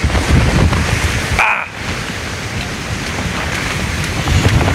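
Hurricane-force wind and driving rain, with the gusts buffeting the microphone in heavy, uneven low rumbles. It eases briefly about a second and a half in, then builds again near the end.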